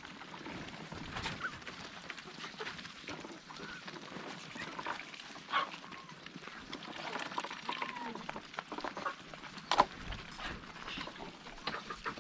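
Domestic ducks and other farmyard poultry giving scattered short calls while feeding, among many small clicks and taps, with one sharp knock about ten seconds in.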